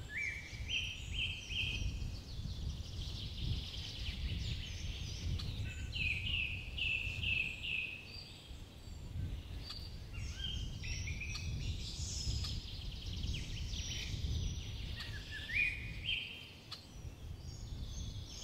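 Birds calling in runs of three or four short, sharp, repeated notes, several times over, above a steady low rumble of outdoor background noise.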